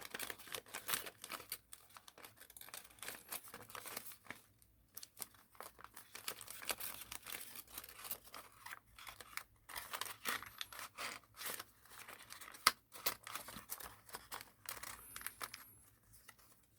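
Thin origami paper being handled, folded and creased by hand: irregular rustling and crinkling with short scraping strokes, and one sharp tap a little before the end.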